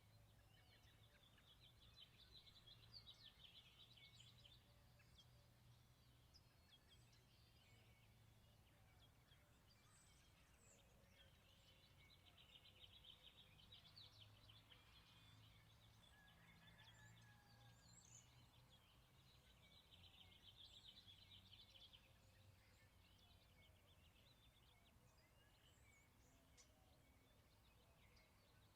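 Faint birdsong: a bird sings a short trilled phrase three times, each a couple of seconds long, with short scattered chirps between, over a faint low hum.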